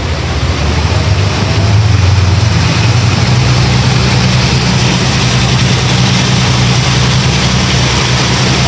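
Tour boat's motor running under way, rising in pitch and loudness over the first two or three seconds and then holding steady, over a steady rushing hiss.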